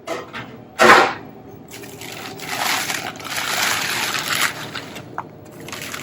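Broccoli and other chopped vegetables going into a pot of soup broth: a loud splash about a second in, followed by liquid sloshing and pouring.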